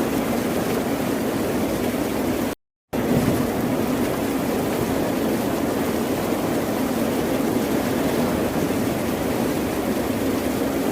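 Steady, continuous ocean surf noise without distinct wave swells. It cuts out to silence for about a third of a second a little over two and a half seconds in, then resumes.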